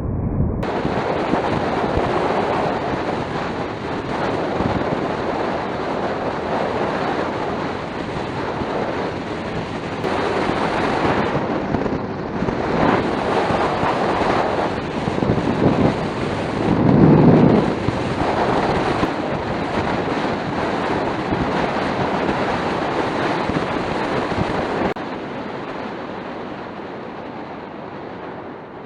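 Wind rushing over the microphone of a scooter rider's action camera at riding speed, with road noise underneath. It swells louder about two-thirds of the way through, then eases off a few seconds before the end.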